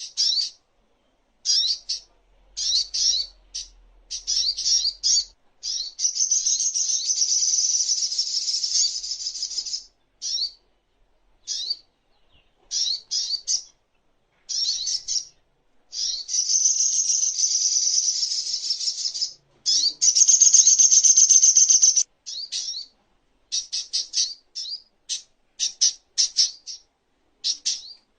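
Spiderhunter (sogok ontong) singing: quick runs of sharp high chirps broken by three long, fast trills of several seconds each, the song used as a tutor recording for cage songbirds.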